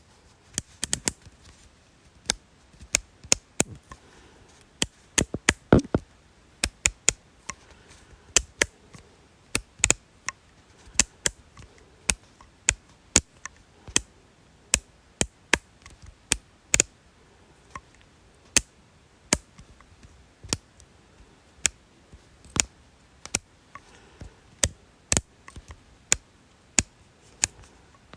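Sharp, dry clicks repeated at an uneven pace of about two a second, some coming in quick pairs, with a denser run about five to six seconds in.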